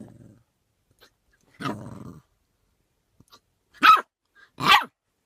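A dog growling low at the start, then giving a gruff bark, and then two loud, sharp barks in quick succession near the end.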